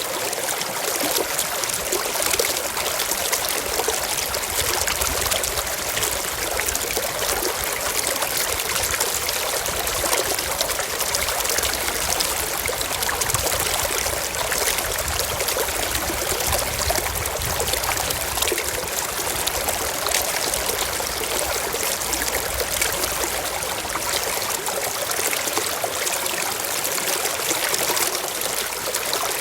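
A small stream running over rocks: a steady babbling and trickling of water.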